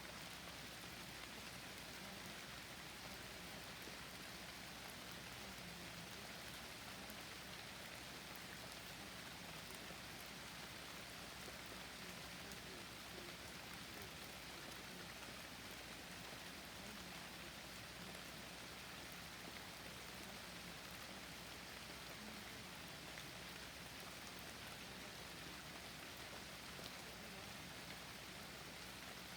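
Steady forest rain: an even hiss with fine drop patter.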